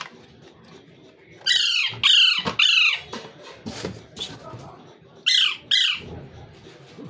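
Pet parrot squawking: five harsh calls that fall in pitch, three in quick succession and then two more a few seconds later.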